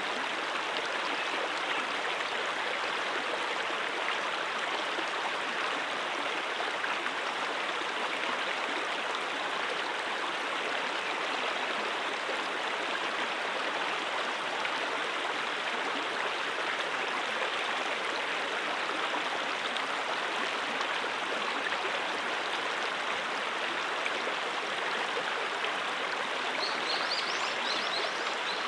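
Brook water running steadily over rocks, an even, unbroken rush. A few faint high chirps come near the end.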